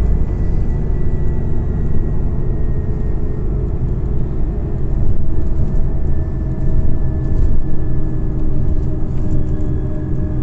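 Scania OmniCity CNG city bus running on the road, heard from inside: a steady low engine and road rumble, with a faint whine that grows and rises slowly in pitch from about halfway through.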